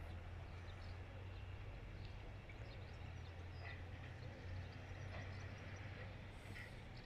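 A steady low drone of distant diesel farm machinery running, with faint scattered bird chirps over it.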